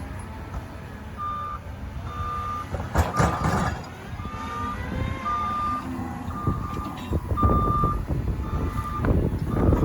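Reversing alarm on a front-end loader, beeping steadily about once a second from about a second in, over the loader's diesel engine running. A loud knock about three seconds in.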